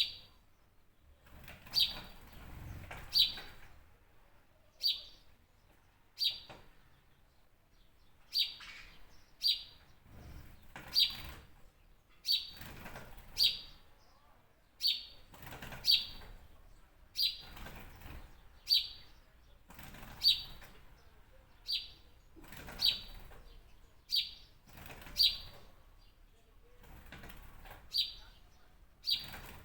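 A bird calling over and over with short, sharp, high chirps that drop in pitch, roughly one every second and a half, sometimes two close together.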